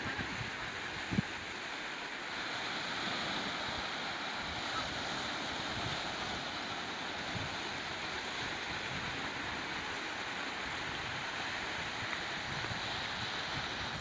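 Ocean surf washing steadily on a rocky beach, with wind buffeting the microphone in low rumbles. A single short thump comes about a second in.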